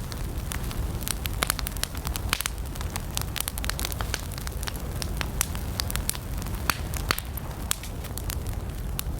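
Campfire of burning wood crackling, with a steady low rumble of flame under many irregular sharp pops and snaps.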